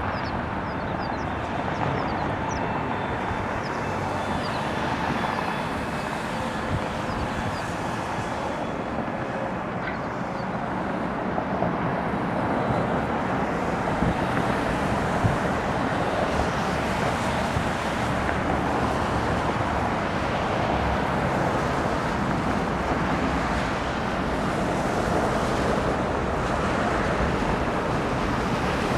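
Steady jet aircraft noise from an Airbus A320neo arriving, mixed with wind on the microphone, growing slightly louder about halfway through.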